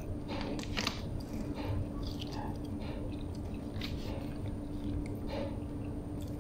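Close-up chewing of a soft bread bun: irregular wet mouth clicks and smacks as the mouthful is worked, over a steady low hum.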